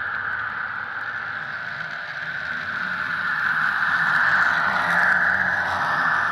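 HO scale model train running along the layout track, heard from a camera riding on the train: a steady rushing rattle of wheels and motor that swells louder in the middle and eases off again.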